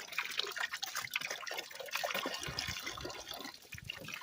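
Hydrogen peroxide being poured from a bottle into a bucket of muriatic acid, a continuous splashing trickle. Low wind rumble on the microphone joins it about halfway through.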